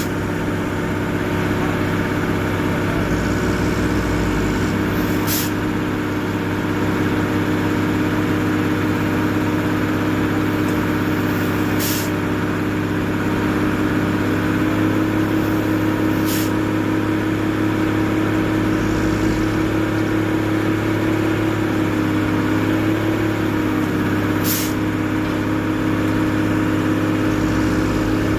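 Tow truck's engine running steadily, its pitch rising slightly about halfway through, with five brief sharp hisses.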